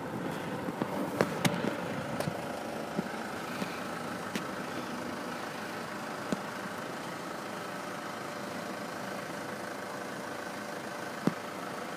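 Road vehicle engines idling steadily, with a few faint clicks and knocks over the steady hum.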